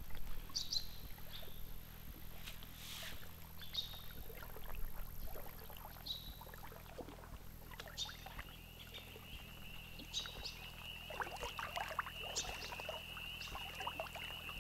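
Quiet evening lakeshore ambience: short high chirps every second or two, and from about halfway a steady high-pitched trill that carries on. Faint rustles and small water lapping at the shore lie beneath.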